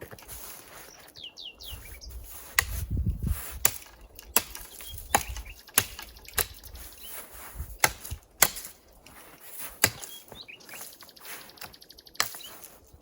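A run of sharp, irregular cracks and knocks, about one or two a second, with a bird chirping a few times in between.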